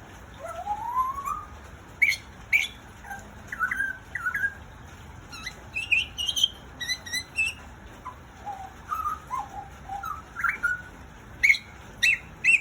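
Butcherbird singing a varied run of clear whistled notes, quick chirps and sliding glides, some rising. Its song opens with a long upward whistle, and a few sharper, louder notes come near the end.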